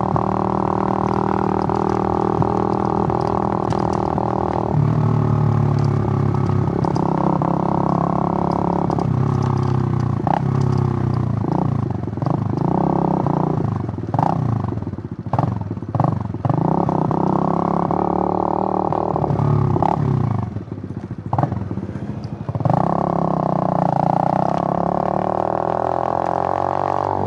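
Suzuki GN125's single-cylinder four-stroke engine running on the move: steady at first, then repeatedly rising and falling in pitch through the middle as the throttle is opened and closed and gears are changed, with a few brief drops off throttle, before settling back to a steady pitch near the end.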